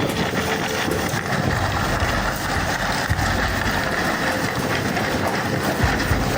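Steady rumbling noise of wind and a running engine, with a faint steady hum underneath.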